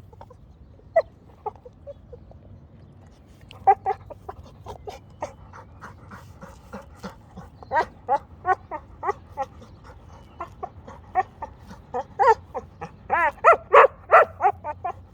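Rottweiler making quick runs of short, high-pitched calls: only a few in the first few seconds, then near-constant, loudest near the end.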